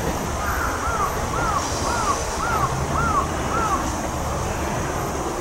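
A bird calling: a run of six clear notes, each rising and falling, about half a second apart, over a steady low rumble and a high hiss.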